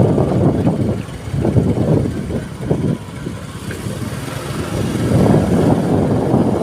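A road vehicle on the move: a loud, uneven rumble of engine and road noise that eases around the middle and swells again near the end.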